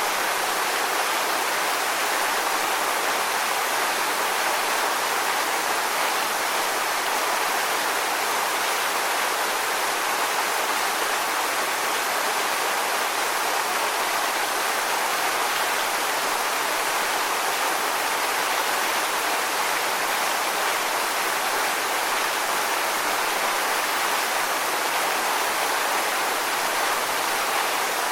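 Steady rushing of running water, an even unbroken hiss that never rises or falls, with no swell of breaking waves.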